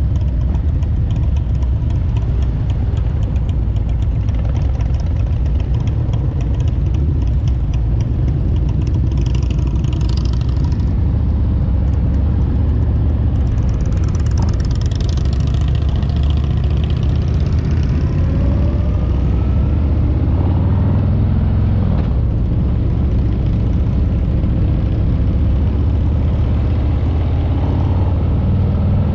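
Harley-Davidson V-twin motorcycle engine running steadily while riding, a loud continuous low rumble, with a few short rises and falls in pitch past the middle.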